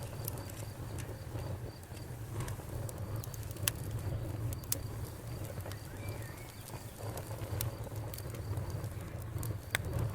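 Wood fire burning in a fireplace: a steady low rush of flame with scattered sharp crackles and pops, the loudest a little under 4 seconds in and again just under 5.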